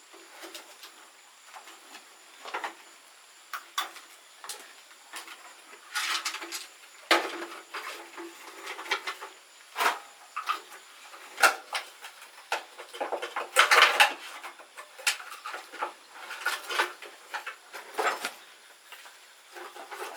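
Metal parts and hand tools clinking, clanking and scraping in an irregular run of knocks, busiest in a few short clusters, as motorcycle parts are handled and worked on.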